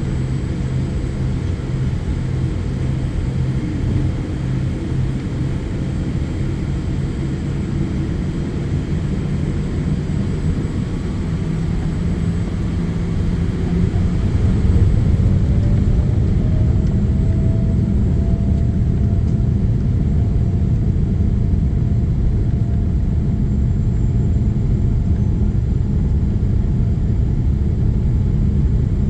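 Boeing 787-8 jet engines heard from inside the cabin: a steady low rumble with a hum at low power, then about halfway through a rising whine as the engines spool up and the rumble grows louder, the sign of takeoff thrust being set.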